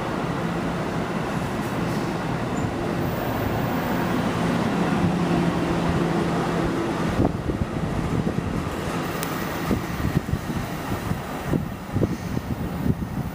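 Passenger train running past, a steady rumble with an engine hum that fades about seven seconds in. Wind then buffets the microphone in irregular low thumps.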